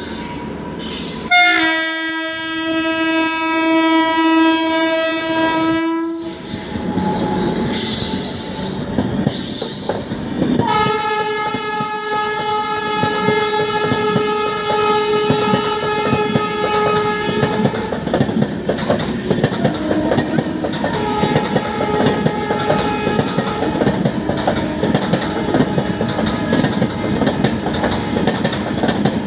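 Gurumukhi Superfast Express passing, its locomotive horn sounding two long blasts: one of about five seconds near the start, and a higher-pitched one of about seven seconds from about ten seconds in. Wheels clatter over the rail joints throughout.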